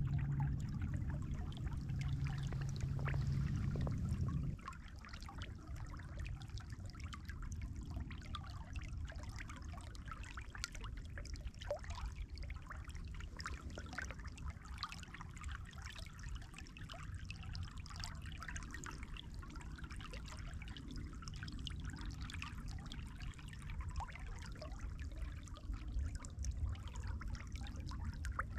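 Water trickling and flowing steadily, with fine splashy ticks throughout. A steady low hum runs under it for the first four seconds or so, then stops.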